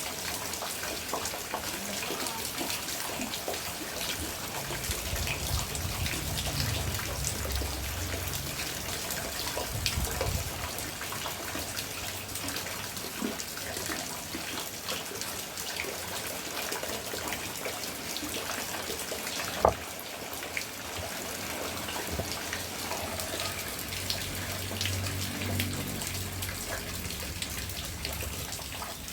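Steady rain falling, with many small drops ticking and splashing close by. One sharp knock comes about twenty seconds in.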